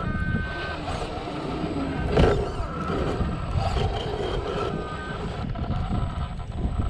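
Traxxas TRX-4 RC crawler's electric motor and drivetrain whining in short bursts as it crawls, over a low rumbling noise. A single sharp knock about two seconds in.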